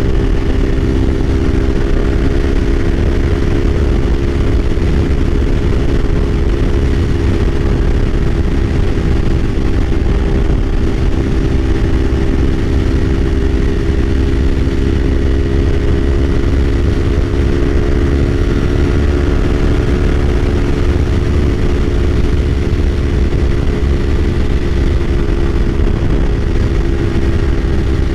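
A 2024 Kawasaki Ninja 500's parallel-twin engine running at a steady cruise while riding. Its pitch holds nearly constant, rising and falling slightly about two-thirds of the way through, over a constant low rumble.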